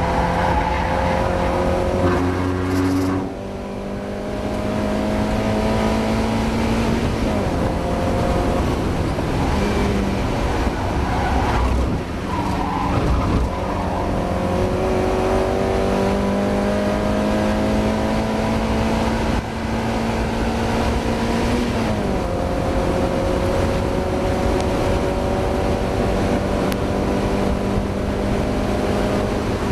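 Mazda MX-5 race car's four-cylinder engine pulling hard under racing load. Its pitch climbs slowly over long stretches and drops sharply several times at lifts or gear changes. The engine is struggling with a misfire.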